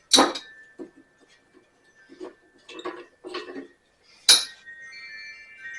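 Metal hand tools clinking and clanking against metal: a sharp clank at the start and another about four seconds in, with lighter taps between and a brief ring after the second.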